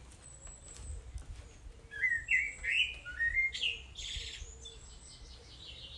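Songbird singing: faint thin high notes at first, then about two seconds in a loud run of quick, varied chirping phrases, a buzzy note and a fast trill. A low rumble runs underneath.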